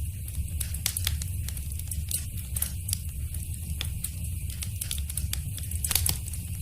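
Wood fire in a fireplace crackling, with irregular sharp pops over a steady low rumble of the flames; one louder pop comes near the end.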